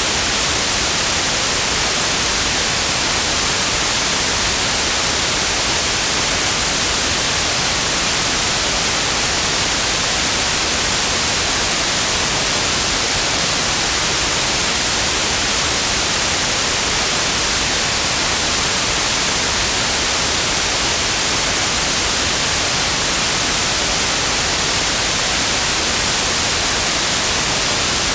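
Steady white noise: an even, unchanging hiss, brightest in the high frequencies, with no tones or events in it.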